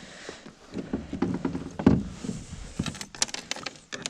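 Irregular knocks, thumps and clicks of handling on a kayak while a caught white bass is released and the landing net is put back, with a quick run of sharp clicks about three seconds in.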